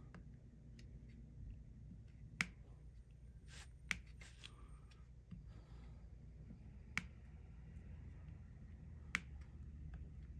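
Sharp single clicks, a second or a few seconds apart, four loud ones with fainter ones between: resin diamond-painting drills being pressed and popped onto the sticky canvas with the drill pen.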